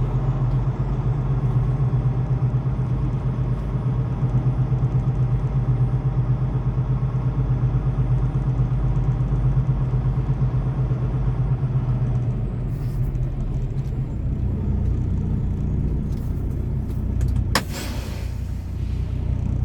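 Semi truck's diesel engine idling with a steady low rumble, the pitch of the rumble shifting slightly about two-thirds of the way through. A single sharp click comes near the end.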